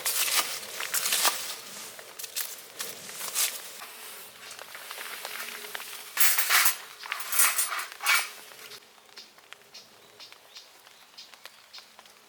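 A fire being lit in a round steel fire pit: irregular bursts of hissing, rustling noise, then from about nine seconds in only faint scattered crackles.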